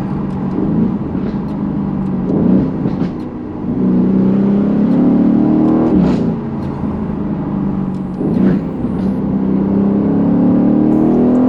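Straight-piped 2020 Aston Martin Vantage with a Quicksilver exhaust and a 4.0-litre AMG twin-turbo V8, accelerating hard through the gears. The engine note rises and breaks off sharply at three upshifts, about two and a half, six and eight and a half seconds in, then climbs again near the end.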